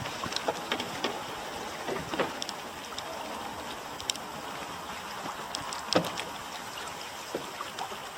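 Paddle strokes in the water of an open canoe: a steady watery hiss with scattered small splashes and drips, the largest about six seconds in.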